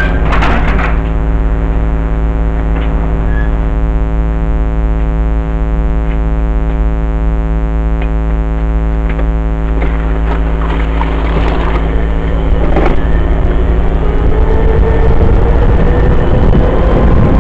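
Dirt bike engine running at a steady low speed, then revving up about three-quarters of the way through, its pitch climbing and the sound growing louder. A few short knocks are heard along the way.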